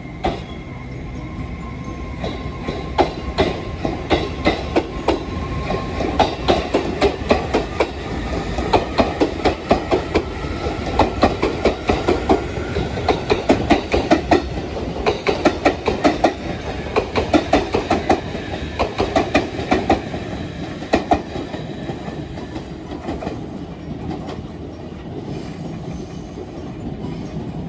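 A train running past, its wheels clattering over rail joints in rapid clusters of clicks over a steady low rumble. The clatter thins out and dies away near the end.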